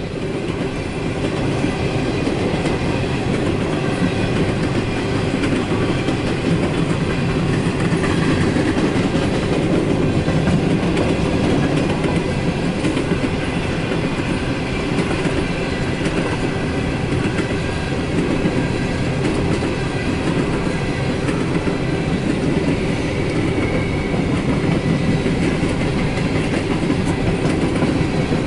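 Empty coal hopper cars of a freight train rolling steadily past on their steel wheels.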